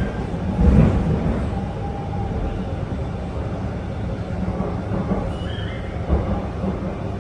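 SMRT R151 train running on the rails: a steady low rumble of wheels on track, with two louder swells near the start. About five seconds in, a stepped rising whine comes from the traction motors.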